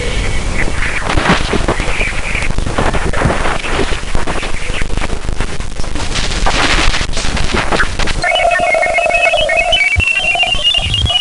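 Dense crackling static full of sharp clicks and pops. About eight seconds in it gives way to a steady hum-like tone with strings of short high beeps above it that slowly climb in pitch, like a sonified spacecraft radio recording.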